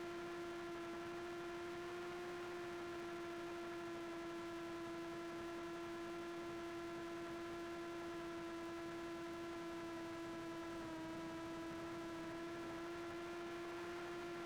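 Steady electric hum of a quadcopter drone's propellers, one even pitch with overtones that dips slightly about eleven seconds in.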